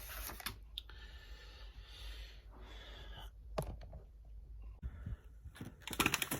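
Handling noises of unboxing: plastic packaging rustling, with a few sharp clicks and taps and a louder cluster of them near the end.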